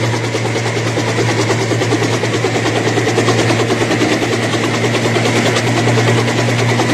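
Helicopter engine and rotor running steadily, with a fast, even pulsing chop over a low hum.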